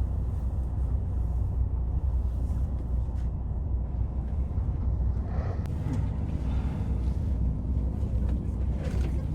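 Boat engine running steadily, a low rumble, with a faint steady hum joining about six seconds in.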